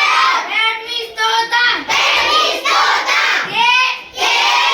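A group of children reciting together in a sing-song chant, high voices in short rhythmic phrases with brief pauses between them.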